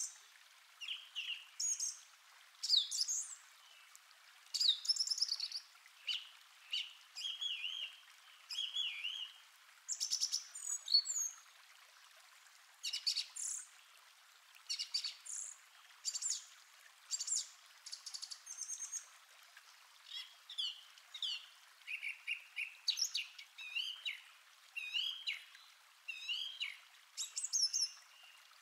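Small birds chirping and singing: a string of short calls and whistled phrases, some rising and some falling, with short gaps between them.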